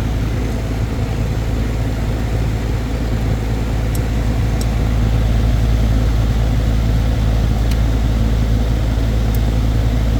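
Goodman heat pump outdoor unit running, a steady compressor hum under the rush of its condenser fan, while it stays in heating mode. A few faint small clicks sound over it.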